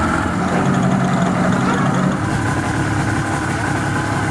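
Tour boat's motor running steadily at low speed with an even hum.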